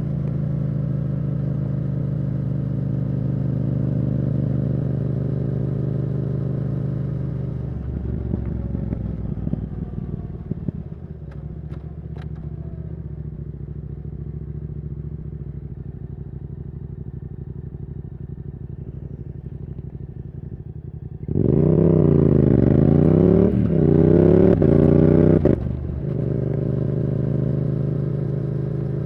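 Yamaha R7's CP2 parallel-twin engine through a Yoshimura R77 exhaust, cruising steadily, then eased off to a quieter, lower drone. About two-thirds of the way in it pulls hard for a few seconds, its pitch rising and breaking sharply twice at quickshifted upshifts, before settling back to a steady cruise.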